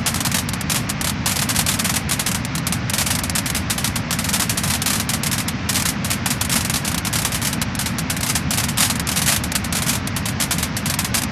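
Wood-burning fire crackling and popping steadily: dense, rapid crackles over a steady low rumble of the flames.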